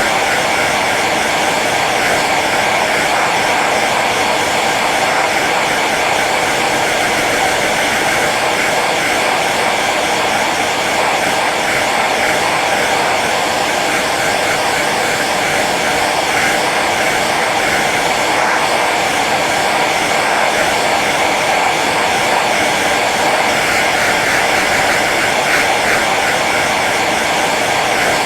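Hair dryer running steadily on its low setting, a constant rushing of air over the motor's whine.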